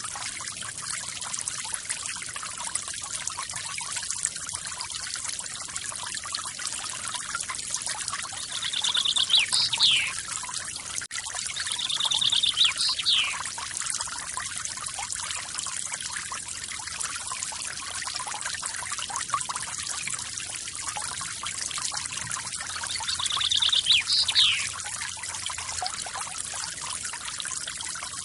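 Waterfall water pouring and trickling steadily, with a bird calling three times over it: each call a fast high trill that ends in a quick downward slide.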